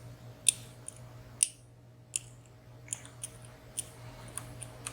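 Lock pick clicking and tapping against the pins and sliders inside a WSW W10 high-security padlock during single-pin picking: a dozen or so sharp, irregularly spaced clicks.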